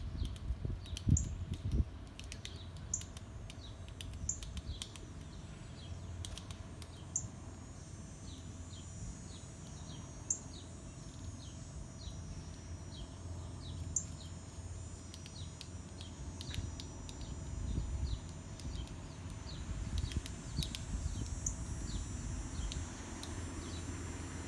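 Birds calling outdoors: a run of short, quick downward chirps, about two a second, with the odd sharper high note.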